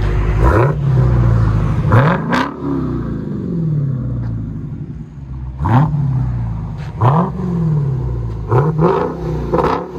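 Supercharged 6.2L Hemi V8 of a 2021 Dodge Challenger SRT Hellcat being free-revved while parked, about seven quick throttle blips. Each rev rises sharply in pitch and then falls slowly back toward idle. It runs through a dual exhaust with Vibrant 1794 bottle resonators in place of the factory mufflers.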